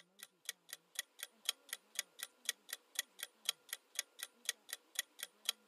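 Clock-tick sound effect of a quiz countdown timer: short, even ticks about four a second.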